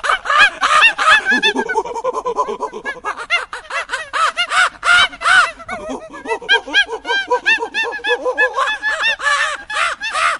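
A flock of birds calling: many short, arched calls in quick succession, overlapping one another.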